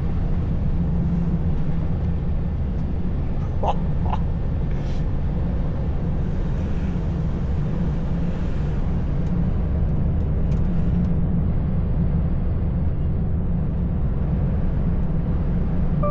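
Truck heard from inside the cab: a steady low engine drone with road and wind noise. Two brief squeaks about four seconds in.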